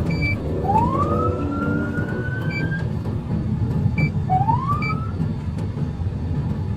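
Police car siren winding up in two rising wails, the first climbing and then holding its pitch for about two seconds, with a few short beeps and the steady low rumble of the moving car underneath.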